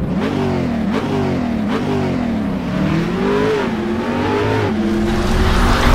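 Car engine accelerating hard through the gears, its pitch climbing and dropping back at each of several upshifts, growing louder near the end.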